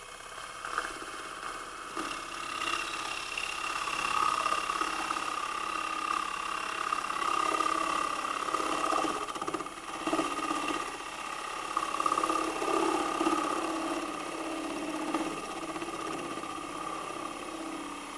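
Wood lathe running while a turning tool takes light cuts across the bottom of a magnolia bowl on a vacuum chuck: a steady motor whine under an uneven cutting and scraping noise that rises and falls as the tool works.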